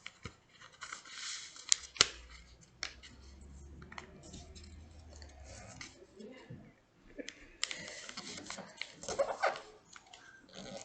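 A sheet of paper being folded and creased by hand: scattered sharp clicks and short rustling scrapes, busiest in the last few seconds.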